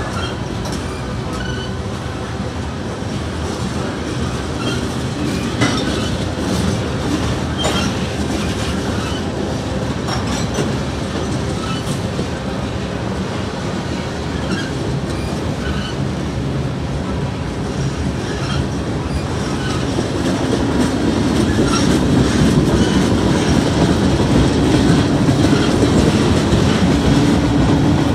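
Freight train cars rolling past at slow speed: a steady rumble of steel wheels on the rails with scattered sharp clicks. It grows louder about two-thirds of the way through.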